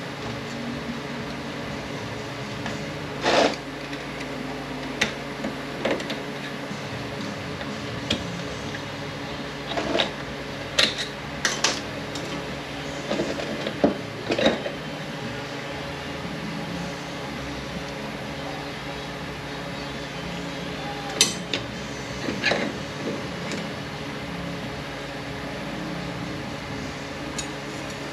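Metal automatic-transmission parts knocking and clinking as a clutch drum is taken apart on a bench: scattered sharp clicks and clanks come in small clusters. Under them runs a steady hum from a shop fan or air conditioner.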